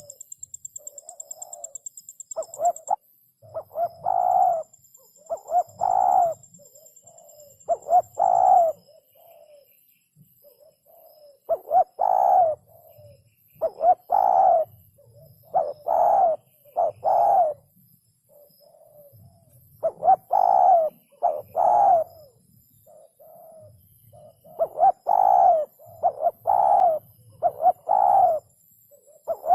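Spotted dove cooing: repeated low, hollow coo phrases come in bouts, with pauses of a few seconds between them.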